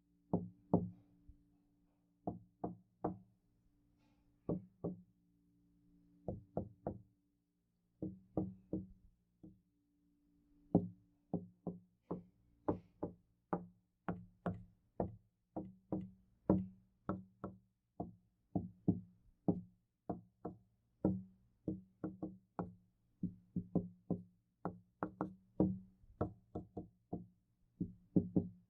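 Knocking on a door, each knock ringing briefly. The knocks come in small groups of two or three at first, then settle into a steadier run of about two knocks a second from around twelve seconds in.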